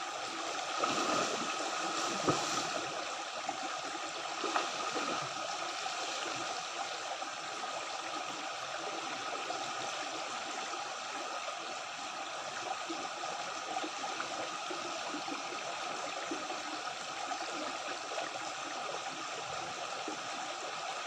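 Water of a stream flowing steadily, with a few brief louder moments in the first five seconds.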